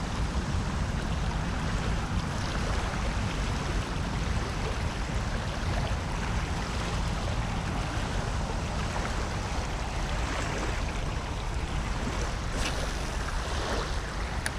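Steady rush of water pouring out of a drainage outflow swollen by rain, an even wash of noise with a low rumble underneath.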